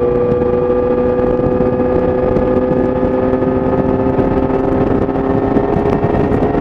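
Yamaha YZF-R6's inline-four engine through an Akrapovic exhaust, running at steady high revs under way, its pitch easing down slightly. Rushing wind noise lies under it.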